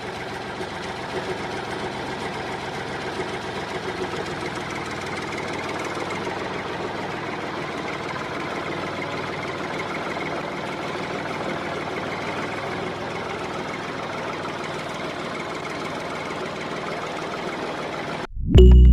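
A small motor running steadily with a busy mechanical whirr, cutting off abruptly near the end.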